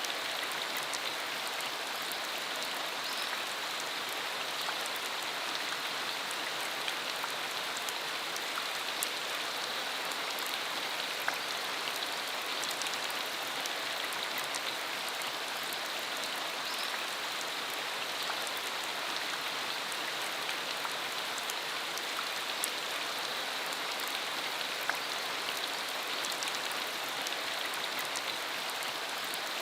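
Steady rain shower falling on a rural road, a constant hiss with many individual drops heard as small sharp ticks, a few of them louder.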